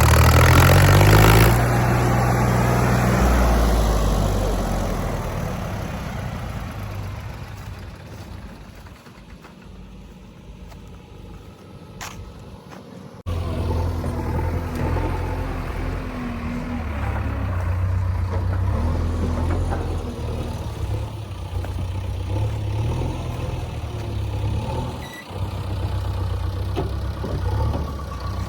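Diesel engine of heavy machinery running, loud at first with pitch changes, then fading away over several seconds; about 13 seconds in the sound jumps back to a steady running engine.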